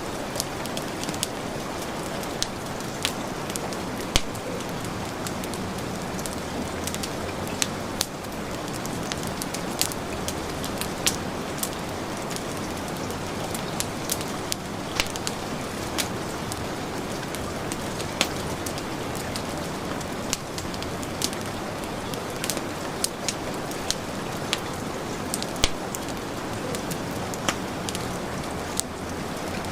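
Heavy rain hissing steadily, layered with a wood fire crackling, its sharp pops and snaps scattered irregularly a few times a second.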